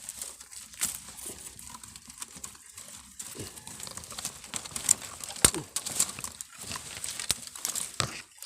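Irregular crinkling and crackling from something being handled, with sharp clicks scattered throughout and a few louder snaps about five seconds in and again near the end.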